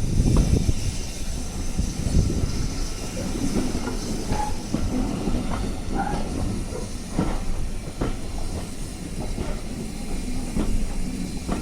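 A heritage railway train: a steady low rumble with irregular sharp clicks and knocks, such as wheels passing over rail joints.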